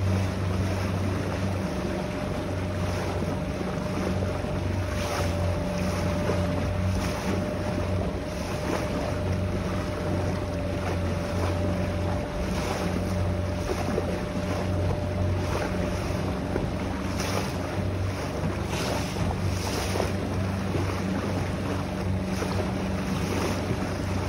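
Small boat's engine running steadily while underway, a constant low hum with a faint steady whine above it, under wind buffeting the microphone and water rushing past the hull.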